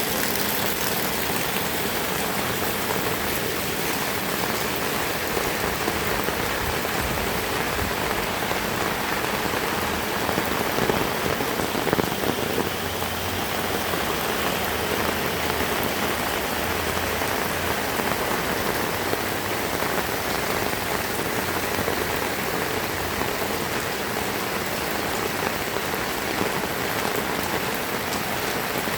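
Heavy rain falling steadily: an even, continuous hiss of drops with no thunder heard.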